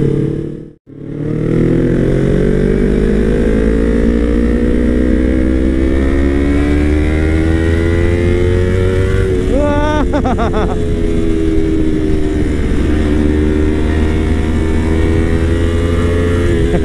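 Yamaha R25 parallel-twin sportbike with an aftermarket Villan exhaust, accelerating hard: the engine note climbs steadily, breaks at a gear change about ten seconds in, then runs on at a steadier pitch as the bike holds speed. Heavy wind rumble on the helmet camera underlies it, and the sound cuts out for a moment just under a second in.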